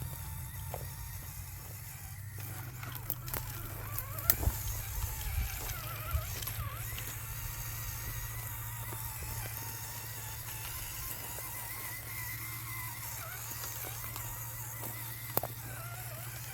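Small electric motor and gears of a scale RC rock crawler whining as it drives over rough ground, with a few sharp knocks about four seconds in and one near the end.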